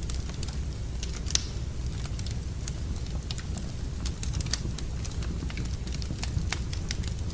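Wood fire burning in a fireplace, crackling with irregular sharp pops over a steady low rumble; the loudest pop comes about a second and a half in.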